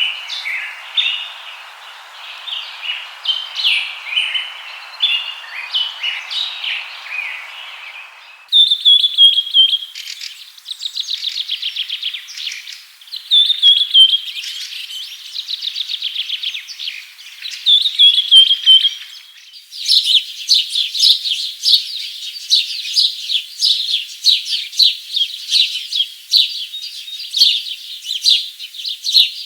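Songbirds chirping and singing. About eight seconds in, the background hiss stops abruptly and a different bird's song takes over: repeated fast trills, each ending on a high note. Near the middle a denser run of quick chirps begins.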